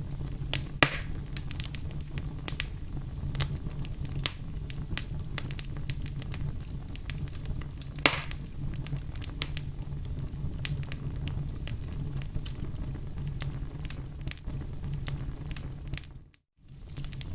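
Wood campfire crackling, with many small pops over a steady low rumble and two louder pops, about a second in and about eight seconds in. The sound cuts out for a moment near the end.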